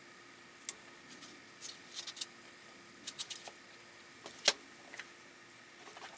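Irregular light clicks and taps of kitchen utensils, a dozen or so, with one sharper knock about four and a half seconds in, over a faint steady hum.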